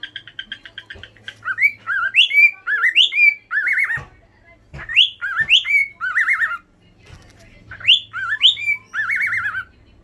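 Cockatiel chattering in a fast run of chirps, then whistling the same phrase three times: rising swoops followed by a wavering trill.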